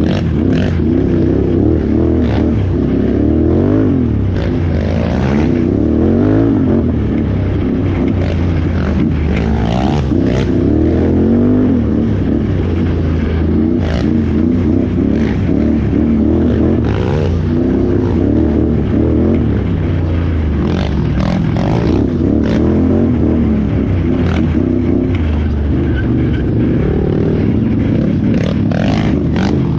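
Can-Am Renegade 1000R ATV's V-twin engine running hard, its revs climbing and falling again and again as it is ridden, with scattered sharp knocks and scrapes throughout.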